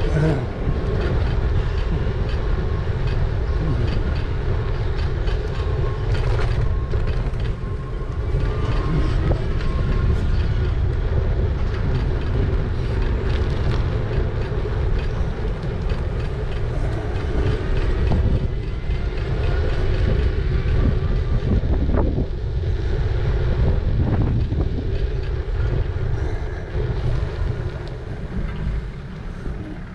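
Riding an e-bike along town streets: steady heavy wind rumble on the microphone over tyre and road noise, with a few short rattles from bumps.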